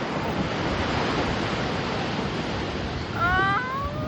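Ocean surf washing steadily, with wind buffeting the microphone. About three seconds in comes a short high-pitched call that rises in pitch and breaks off.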